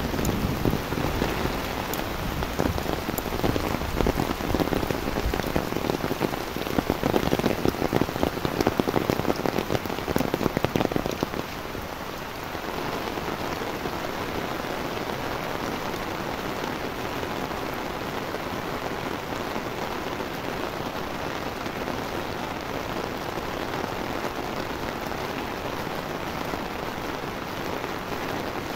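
Steady rain falling, heavier and louder for the first twelve seconds or so, then settling to a quieter, even hiss.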